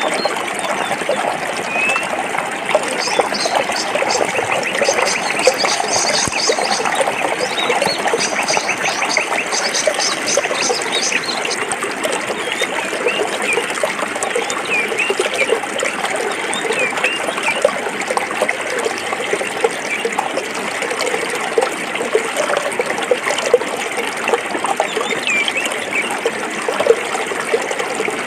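A forest stream flowing over rocks, a steady splashing babble. A rapid high trill runs from about 3 seconds to 12 seconds in, and short high chirps come and go throughout.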